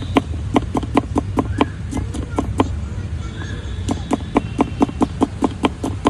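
Quick, even knocks of a kitchen utensil while banana stem bhel is prepared, about five a second, with a pause of about a second near the middle, over a steady low hum.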